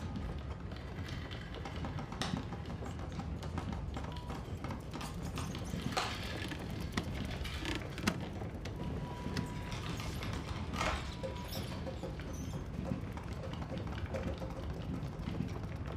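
Film soundtrack: music over a steady low rumble, with many scattered light taps and clicks throughout.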